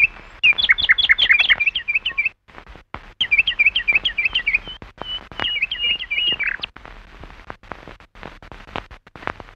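Small birds chirping in quick, high, repeated calls, in two runs with a short break between them. The chirping stops after about seven seconds, leaving a few faint clicks.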